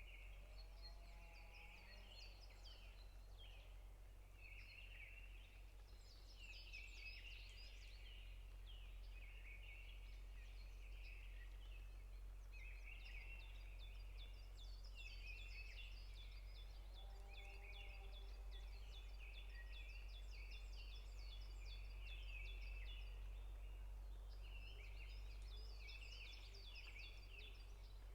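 A faint chorus of forest songbirds chirping and trilling, with many calls overlapping, and a lower, drawn-out call twice. A steady low hum runs beneath.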